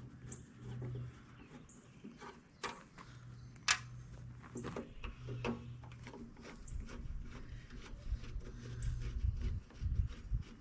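Scattered sharp clicks and light knocks of parts and tools being handled while a tractor's gauge cluster is taken apart, over a steady low hum. Several heavier low thumps come near the end.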